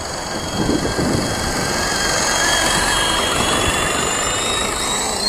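WLtoys V913 RC helicopter in flight: the brushless motor and rotors give a steady high whine that slowly climbs in pitch toward the end.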